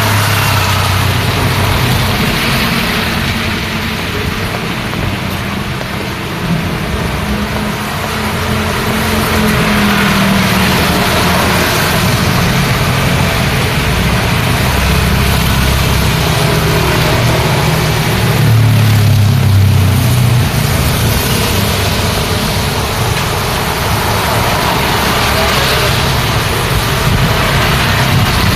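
Road traffic in the rain: car and motorbike engines running and passing over a continuous hiss of rain and wet tyres, with a louder vehicle passing about two-thirds of the way through.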